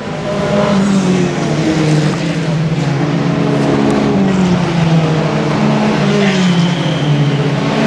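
Race car engine running, its pitch wavering slowly up and down.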